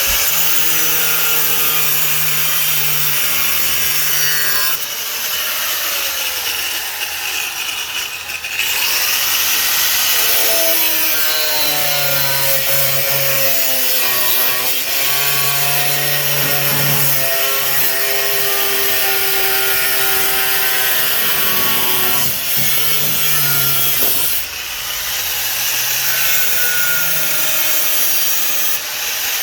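4.5-inch angle grinder with a cut-off disc cutting through the sheet-metal lip of a wheel well. Its whine dips and recovers in pitch as the disc bites, and it eases off briefly twice.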